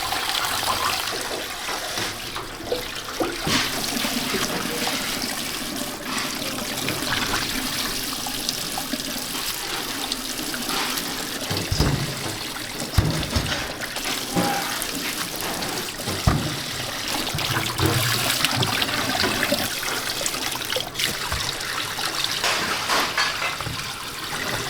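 Water running steadily from a tap and splashing, with a few dull knocks about halfway through.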